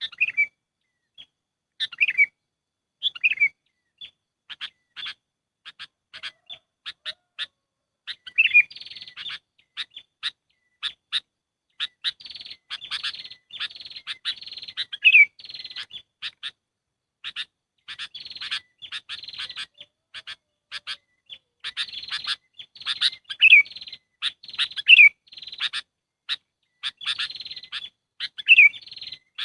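Sooty-headed bulbuls (kutilang) calling, as on a bird-trapping lure recording: short bright chirps and falling slurred notes. The calls are sparse at first, then from about eight seconds in they become a dense, rapid chattering.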